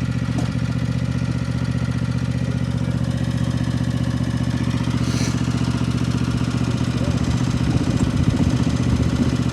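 Small petrol engine running steadily, turning uneven over the last few seconds.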